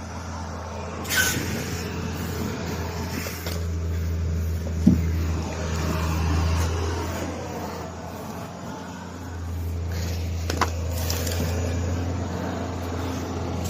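Heavy truck diesel engine running with a steady low drone that swells twice as it works. There is a short knock about five seconds in and a sharp click later on.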